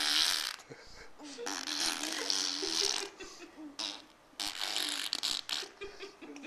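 A baby blowing wet raspberries, buzzing her lips with her voice in several drawn-out bursts of 'brrr', like a motorbike engine.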